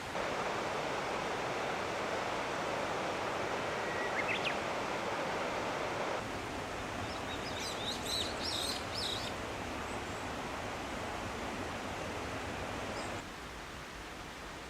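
Steady rushing of a clear mountain stream, the Ishiutoro River, its level stepping down twice. A bird calls briefly with a short rising note, then chirps several times in a quick run in the middle.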